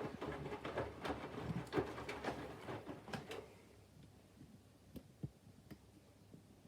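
Candy front-loading washing machine drum tumbling wet laundry during the water-heating phase of its 40° wash, with sloshing and small knocks. The drum stops about three and a half seconds in, leaving only a faint hum and an occasional tick.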